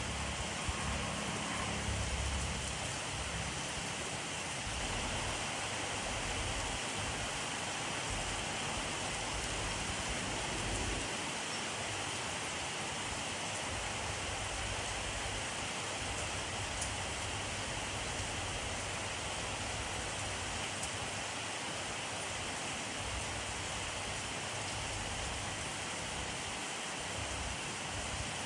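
Steady rainfall: an even hiss of rain falling on surfaces, with a low rumble that swells and fades underneath.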